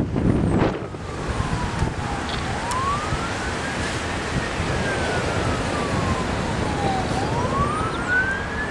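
Emergency vehicle siren on a slow wail: one tone rising and falling about every four and a half seconds, over a steady rushing background. There are a couple of loud low gusts or rumbles in the first second.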